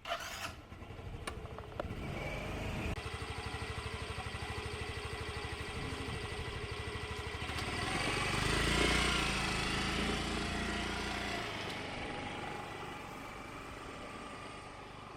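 Motorcycle engine starting suddenly, then running with a steady beat. It swells to its loudest about eight or nine seconds in as it speeds up, then slowly fades.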